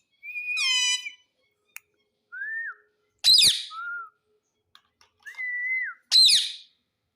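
Pet parrot whistling and screeching. A clear whistled note comes in the first second, then shorter whistles, with two loud harsh screeches about three and six seconds in.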